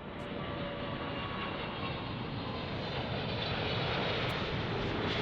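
Jet airliner's engines making a steady rushing noise that slowly grows louder as the aircraft passes.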